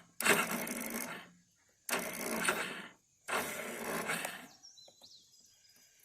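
Yamaha Grizzly 660 ATV's single-cylinder engine being cranked over in three short bursts of about a second each, failing to stay running after stalling.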